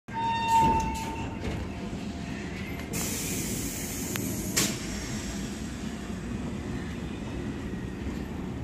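Electric multiple-unit local train rolling slowly along the track, a steady low rumble of its wheels and running gear. A brief high tone sounds in the first second, and a hiss from about three seconds in ends in a sharp click.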